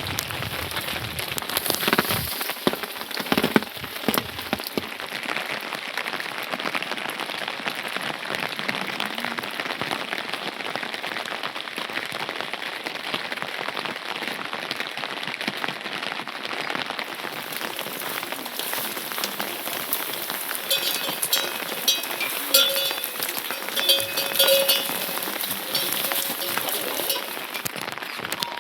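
Steady rain falling, a dense patter of drops. From about twenty seconds in, a faint repeated higher-pitched sound joins it for several seconds.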